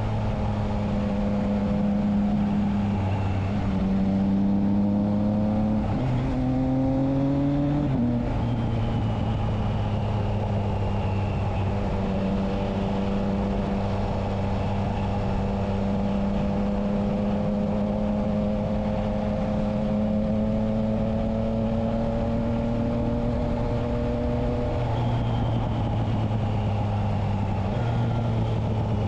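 Triumph Trident 660's inline three-cylinder engine running through a Spark aftermarket exhaust with its dB killer fitted. The revs climb and then drop suddenly about eight seconds in, rise slowly for a long stretch, then drop again near the end, like a motorcycle riding and shifting gear.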